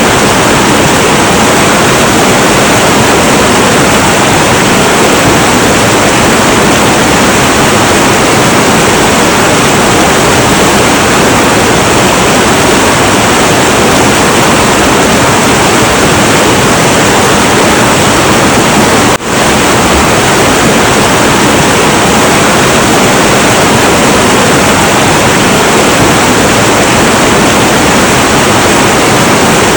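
Heavy, turbulent river water, a loud steady roar, with a very brief dropout about two-thirds of the way through.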